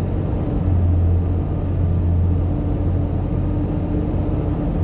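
Pickup truck driving, heard from inside the cab: a steady low drone of engine and road noise with a faint hum above it.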